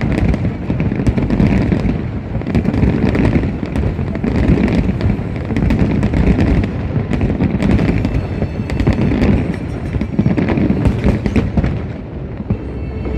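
Fireworks display in full barrage: many bursts and bangs overlapping with no pause.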